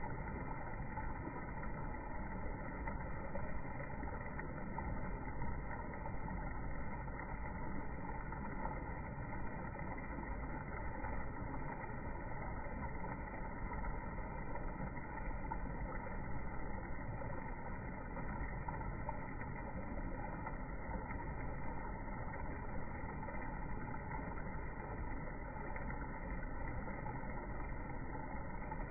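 Steady, even rushing background noise with no separate events, mostly low in pitch.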